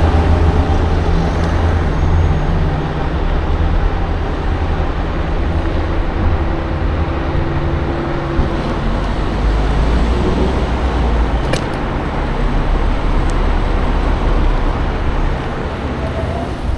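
Road traffic heard from a moving electric scooter: a motor vehicle's engine running close by under a steady rushing noise of wind and road.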